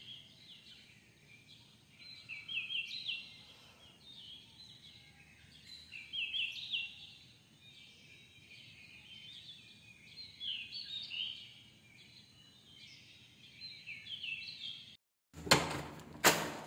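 Small birds singing in short, repeated chirping phrases every second or two over a faint steady hiss. Near the end the sound cuts out briefly, then a few loud knocks and rustles come close to the microphone.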